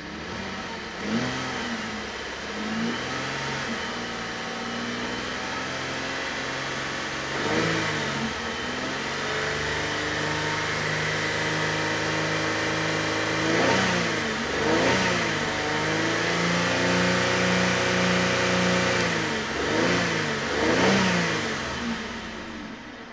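Holden VE Commodore's 3.6-litre V6 petrol engine being revved in Park, heard from inside the cabin. It gives several quick throttle blips that rise and fall in pitch, holds at about 3000 rpm for a long stretch in the middle, then drops back toward idle near the end.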